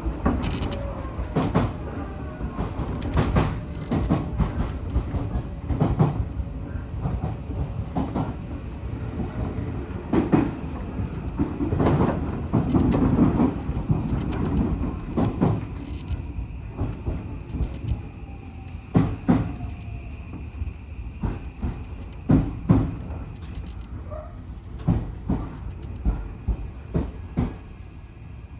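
Odakyu 1000 series electric train running, its wheels knocking and clattering irregularly over rail joints over a steady low rumble. A faint steady high tone comes in about halfway.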